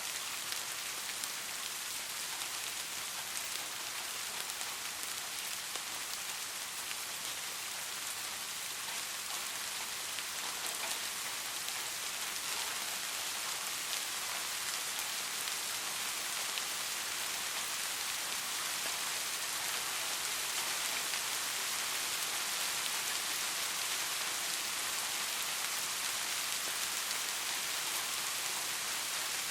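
Steady rain falling, an even hiss of many drops with fine individual patters, growing slightly louder over the span.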